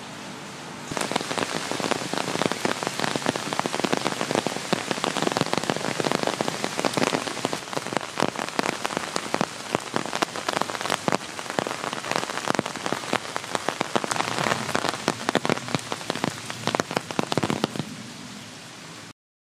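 Rain pattering on a surface close to the microphone: a dense, irregular crackle of drops that sets in suddenly about a second in and cuts off abruptly near the end.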